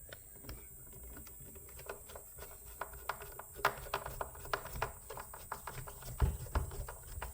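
Irregular light clicks and clatter of screws and small hard parts being handled, getting busier after about three seconds, with two dull knocks near the end.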